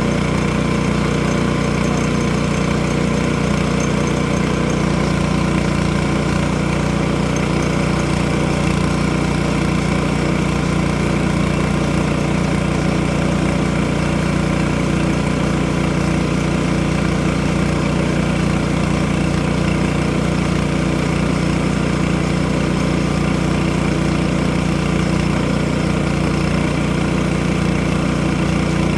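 Sawmill engine running steadily and evenly, with no change in speed.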